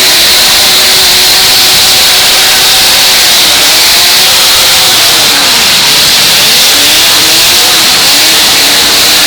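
Several full-size demolition derby cars' engines revving together, loud and steady, their pitches rising and falling against one another as the cars drive and push.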